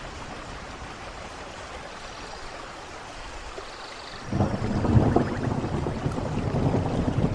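Steady rain hiss. About four seconds in, a loud low rumble of thunder breaks in and keeps rolling, with crackling over the rain.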